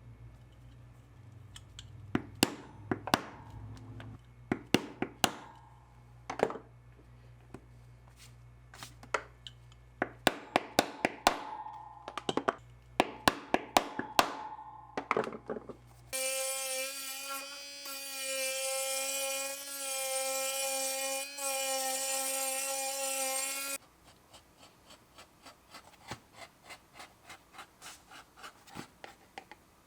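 Leatherworking workshop sounds: sharp knocks, some in quick clusters. About sixteen seconds in, a power tool's motor runs with a steady whine for about eight seconds and then stops. It is followed by soft, regular strokes at about two or three a second, like hand rubbing or sanding.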